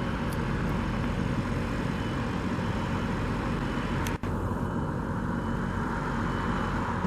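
Steady road traffic noise, cars passing in a continuous wash, with a brief dropout about four seconds in.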